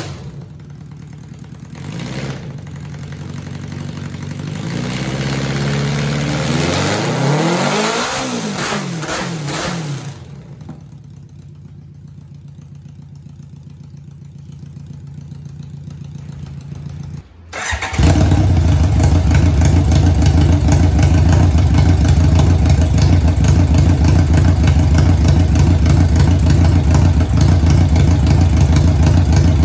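1991 BMW K1 motorcycle's inline-four engine: the bike rides past, getting louder to a peak about eight seconds in and then fading away. After a sudden break about seventeen seconds in, the engine idles steadily and loudly, close up.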